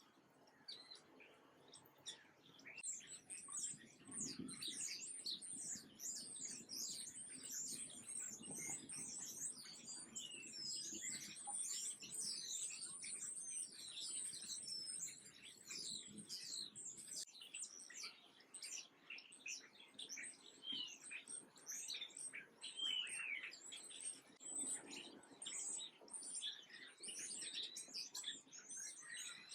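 Small birds chirping: a dense, continuous run of short high chirps from several birds at once, building up about three seconds in.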